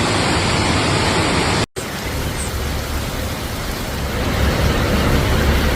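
Loud, steady roar of heavy rain and rushing water. It cuts out for a moment a little under two seconds in, then returns as a similar steady roar with a deeper low rumble.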